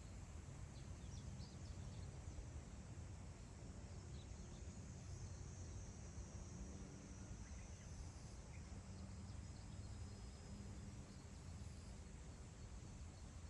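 Faint wind over open grassland, a steady low rumble, with a few faint, distant bird chirps.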